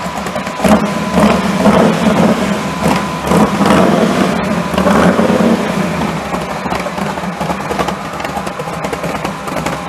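Shelby GT500 'Eleanor' Mustang's V8 engine revved in several short blips over the first half, then running at low revs as the car starts to roll off.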